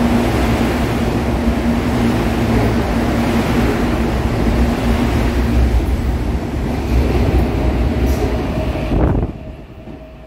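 CPTM electric commuter train running past close alongside a station platform: a loud, steady rumble of wheels and running gear with a steady hum that fades about six seconds in. Near the end the sound cuts off suddenly to a much quieter, more distant train rumble.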